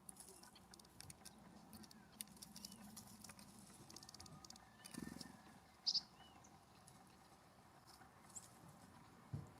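Faint birdsong with short high chirps every few seconds and one louder short high note about six seconds in, over soft ticking and tapping of birds feeding at a ground seed feeder.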